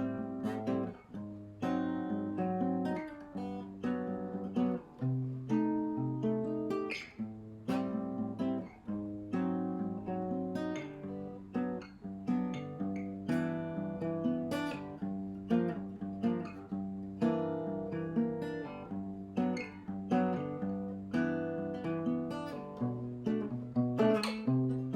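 Acoustic guitar music, plucked and strummed chords in a steady rhythm, laid on as a backing track.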